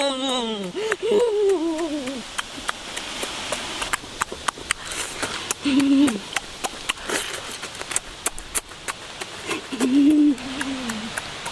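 Many sharp crackling clicks, with a falling voice-like tone in the first two seconds and two short low hums about 6 and 10 seconds in.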